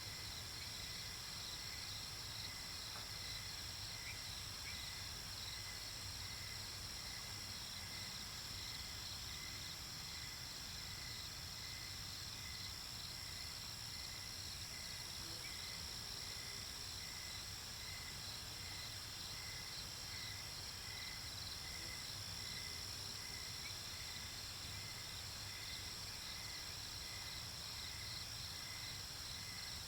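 Night insects, crickets among them, chirping steadily: a continuous high, fast-pulsing trill with a lower chirp repeating a little faster than once a second.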